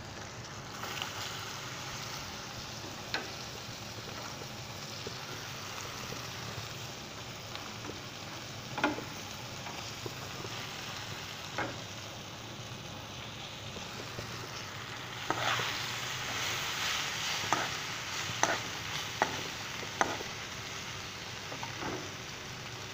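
Shredded cabbage frying in hot oil in a pan, a steady sizzle. A spoon clicks and scrapes against the pan as the cabbage is stirred, a few times early and more often in the second half.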